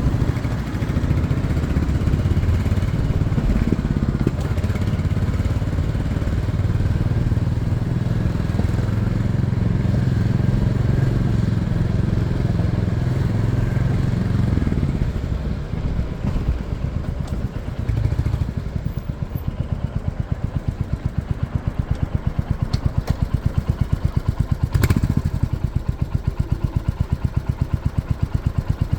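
Motorcycle engine running: a steady, even engine note for about the first half. It then drops to a lower level and settles into a regular pulsing beat, with a brief louder burst near the end.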